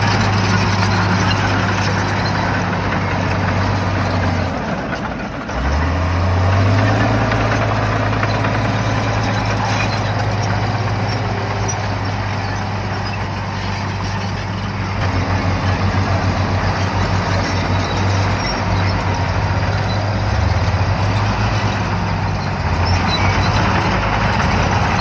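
Shantui bulldozer's diesel engine running steadily. About five seconds in it drops briefly, then rises in pitch as it speeds up again. From the middle on its hum pulses unevenly.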